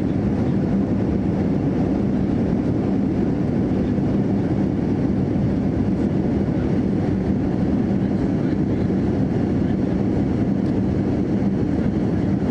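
Boeing 787-9 airliner cabin in cruise: a steady, even roar of airflow and engine noise, with a constant low hum.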